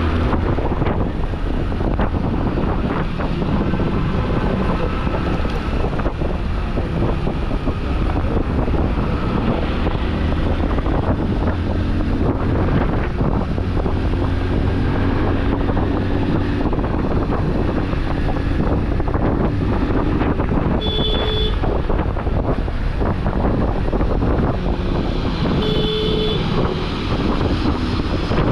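Motorcycle riding through traffic: steady engine and road noise with wind buffeting the microphone. A vehicle horn sounds briefly twice, about three quarters of the way through and again a few seconds later.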